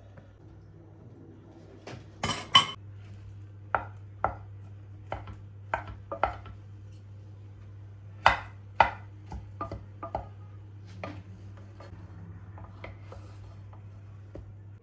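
Kitchen dishes and cutlery clinking and knocking as they are handled: a string of separate sharp clinks, loudest about two seconds in and again twice around eight seconds, over a steady low hum.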